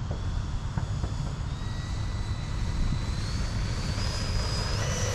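70 mm electric ducted fan of an E-flite F-16 RC jet on 6S, spooling up for the takeoff run. A thin whine climbs in pitch in steps over a steady low rushing noise.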